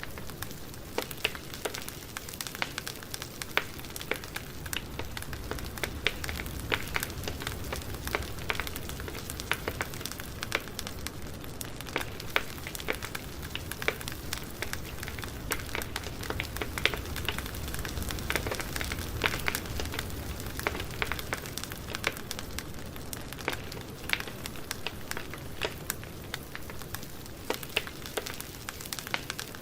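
Campfire burning, with irregular sharp crackles and pops of burning wood over a steady hiss and a low rumble of the flames.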